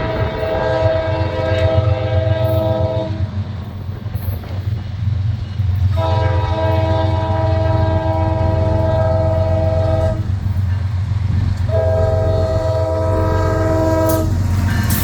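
Diesel freight locomotive's multi-chime air horn sounding three long blasts. The first fades out about three seconds in, a second runs about four seconds from six seconds in, and a shorter third follows near the end. A steady low rumble of the locomotive's diesel engine runs underneath.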